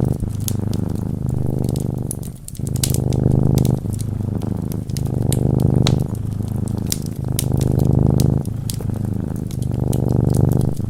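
Domestic cat purring close up: a rough, pulsing purr that alternates between in-breath and out-breath phases of about a second each. Wood fire crackling with many sharp pops throughout.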